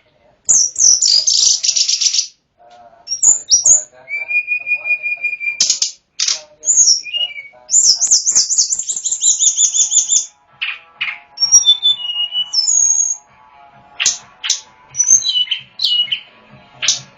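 Tledekan gunung singing loudly in separate phrases: fast buzzy trills, held clear whistles and quick sliding chirps, varied from phrase to phrase.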